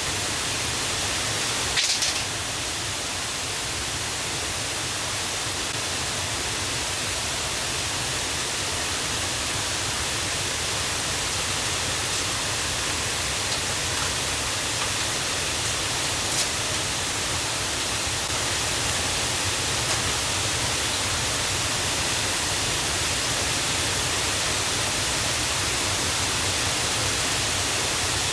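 Steady, even rush of a river and waterfall running high after the previous day's rain. A brief sharp knock about two seconds in.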